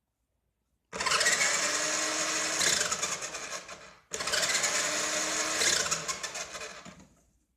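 Electric motor and gears of a vintage Tandy Radio Shack Wild Ranger 4x4 RC monster truck, whining in two runs of about three seconds each. The second run starts right after the first. Each run falls in pitch and fades out as the motor winds down.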